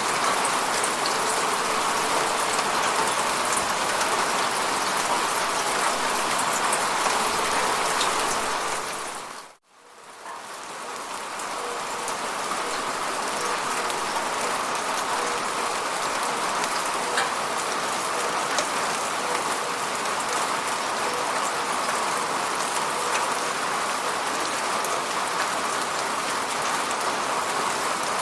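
Steady falling rain, a dense even hiss with scattered drop ticks. About a third of the way in it fades to near silence for a moment, then swells back up over a couple of seconds.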